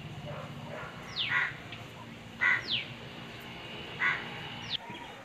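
Birds calling in the open air: three short harsh calls about a second and a half apart, with thin whistles that slide quickly downward in between.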